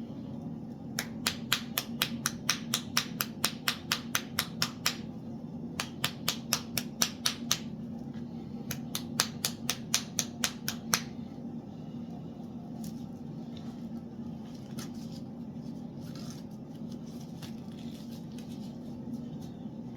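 Hammer blows on metal in three quick runs of about five strikes a second, over a steady low hum.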